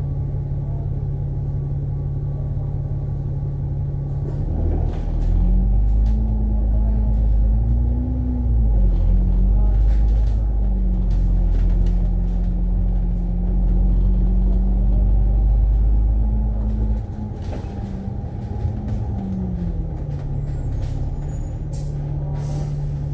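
Onboard sound of an Alexander Dennis Enviro500 MMC double-decker bus. The engine hums steadily, then about four seconds in it pulls away with a heavy rumble, its note rising and dipping through the gear changes. It eases back to a lower, steady hum near the end.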